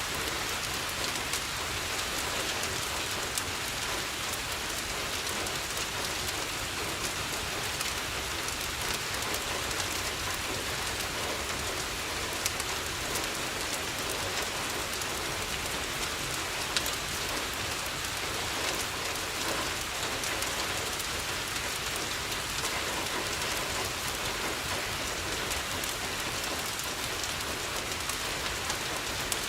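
Steady rain, an even hiss with many small scattered ticks and pops, one sharper pop a little past halfway.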